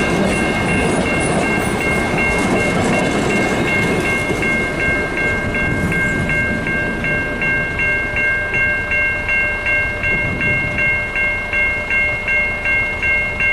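Level-crossing warning bells ringing evenly at about three strokes a second, over the rumble of the Z1's train passing on the rails; the train noise fades after about four seconds while the bells keep ringing.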